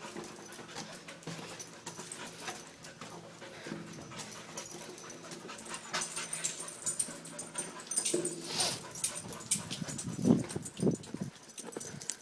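Pit bull puppy panting and whimpering softly, with a few short whimpers near the end.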